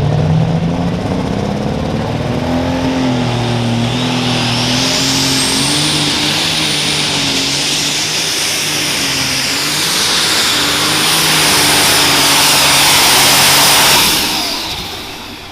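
Turbocharged diesel engine of a light super stock pulling tractor at full throttle pulling the sled, with a high turbocharger whine that climbs over a couple of seconds and then holds. The sound drops away quickly near the end as the run ends.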